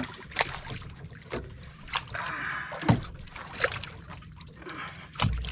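Sounds aboard a small boat at sea: water slapping against the hull with a series of sharp, irregular knocks.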